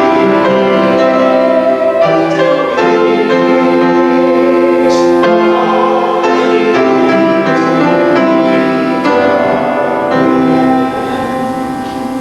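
Keyboard instrument playing slow, sustained chords of church music, changing every second or two and growing quieter near the end.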